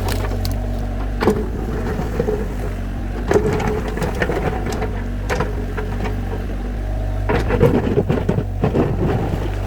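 Excavator engine running steadily while the bucket scrapes and knocks against stone and earth, digging out a track. The clattering knocks come thickest in the last few seconds.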